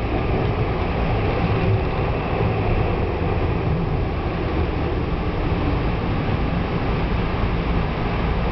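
Tokyu Oimachi Line local train running into a station, heard from inside the car: a steady noise of wheels on rail and the train's motors, without distinct clicks or changes.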